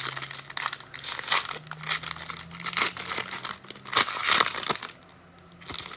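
Plastic wrapping of a trading-card pack crinkling and tearing as the pack is opened by hand, rustling in short irregular spells that go quiet for about half a second near the end.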